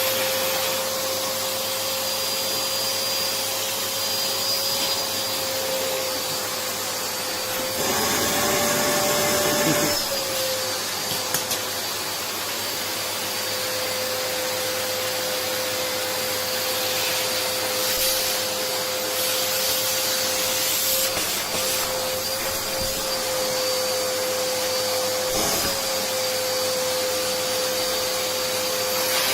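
Vacuum cleaner motor running steadily with a constant whine over the rush of air. About eight seconds in, the whine briefly rises in pitch and the sound gets louder for a couple of seconds, then settles back.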